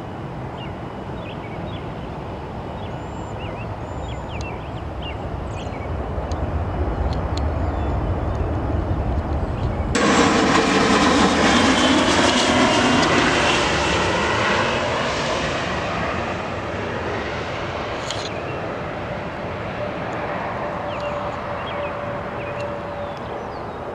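Jet airliner passing close by: a low engine rumble builds, then a loud rush sets in abruptly about ten seconds in, with the engine tones falling in pitch as it goes past, and then it fades away.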